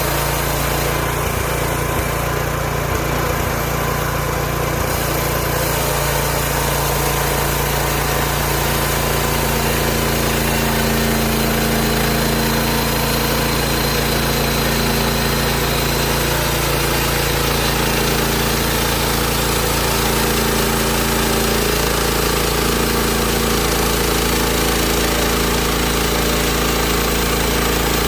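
Engine of a Hud-son Homesteader 30 bandsaw mill running steadily, with a slight shift in its tone partway through.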